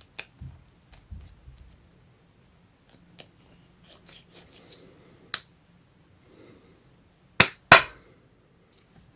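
Hands handling a fan heater's cardboard box and packaging: scattered light taps, clicks and rustles, then two loud sharp snaps in quick succession near the end.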